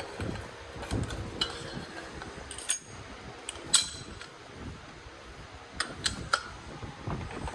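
Metal parts and tools being handled on a workbench, giving scattered light clinks and knocks over a low background hum. The two sharpest clinks come a little before and a little after the middle.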